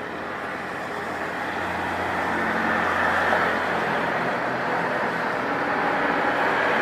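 Airliner engine noise swelling steadily louder over several seconds as the aircraft nears, then holding loud.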